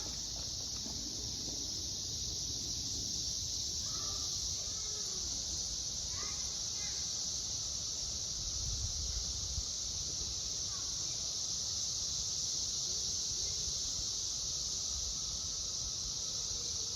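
Chorus of periodical cicadas: a steady, high, unbroken drone from many insects singing together, cut off suddenly at the end.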